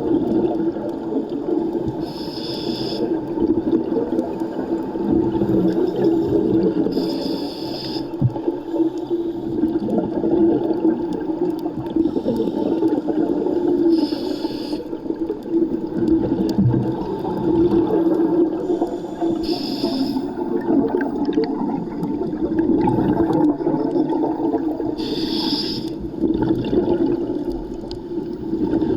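Scuba diver breathing underwater through a regulator: a short bubbling exhale about every five to seven seconds, five in all, over a steady low drone.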